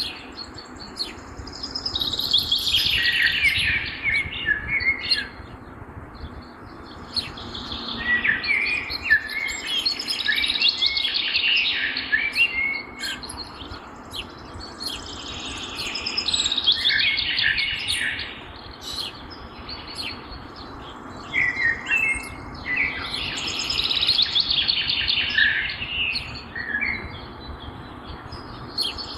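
Songbird singing: dense, rapid warbling phrases several seconds long, repeated with short pauses between them, over a faint low background noise.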